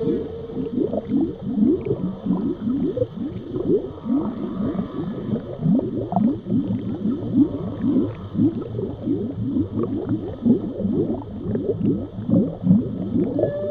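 Underwater animal calls: a fast, continuous series of short rising whoops, about three a second, over a low background hum.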